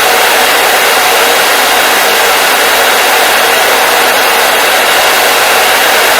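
Hair dryer running steadily: a loud, even rushing of air with a faint motor hum.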